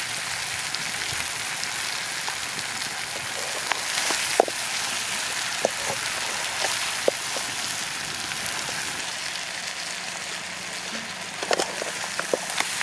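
Chicken frying in a wide aluminium kadai over a wood fire: a steady sizzle, with a metal spatula clinking and scraping against the pan now and then, several times in quick succession near the end.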